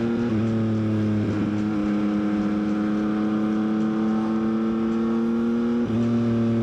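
Motorcycle engine pulling away and accelerating through the gears, its pitch climbing slowly between short breaks for upshifts: about a third of a second in, around a second and a half, and just before six seconds, where the pitch drops. Wind rushes underneath.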